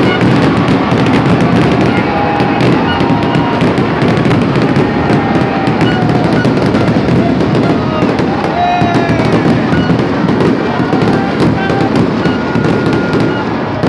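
Fireworks display going off without a break: a dense barrage of bangs and crackling, with music playing underneath.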